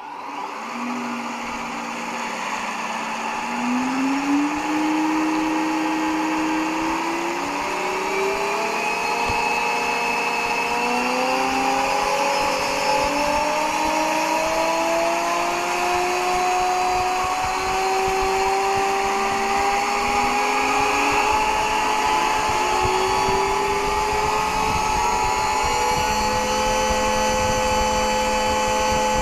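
Small electric-driven RC helicopter tail rotor spinning up on a test rig. Its whine of several tones rises in steps over about twenty seconds as the speed is raised, then holds steady, over a steady lower hum.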